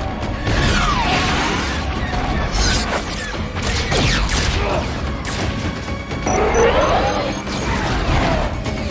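Action-film soundtrack: music under the sound effects of starships sweeping past, with several crashes and impacts.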